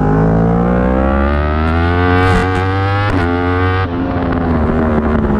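Yamaha R1 inline-four race bike engine under hard acceleration, its pitch climbing with brief breaks at gear changes about two and three seconds in. Near four seconds in it drops off sharply as the throttle closes.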